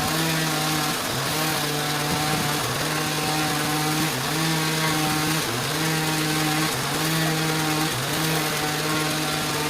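A saw's motor running steadily, its pitch dipping briefly and recovering about once a second.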